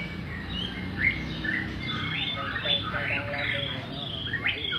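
Bird giving a rapid run of short, high chirps and squawks, several notes a second, over a low steady hum.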